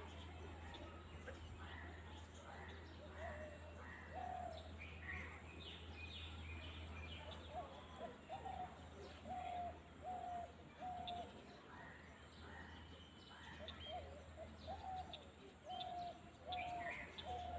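Faint birdsong: runs of short, evenly repeated notes with scattered higher chirps, over a steady low hum.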